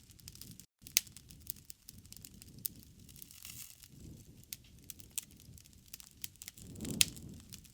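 Wood fire crackling in a fireplace: frequent sharp pops and snaps over a soft low rumble of flame that swells briefly about a second before the end. The sound cuts out for an instant just under a second in.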